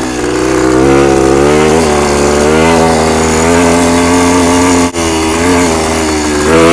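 Kawasaki F11 250 single-cylinder two-stroke dirt bike engine being ridden hard, its note climbing and dipping as the throttle opens and closes. The sound cuts out for a moment about five seconds in.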